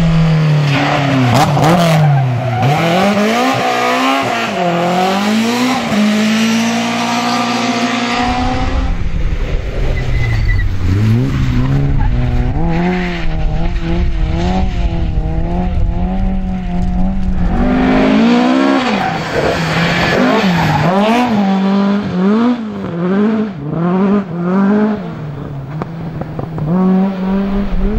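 Historic rally cars driven hard on a stage, their engines revving up and dropping back again and again through gear changes and lifts as they pass.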